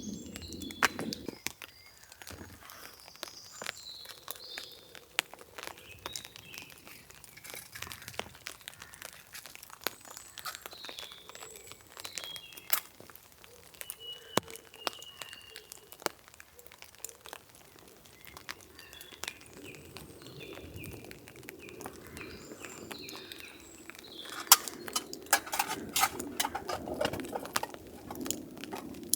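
Birds chirping with short calls, over scattered sharp taps and clicks that come thicker near the end.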